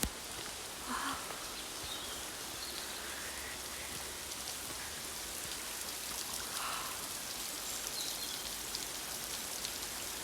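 Steady patter of many falling water drops, a dense spray of fine drips over an even hiss.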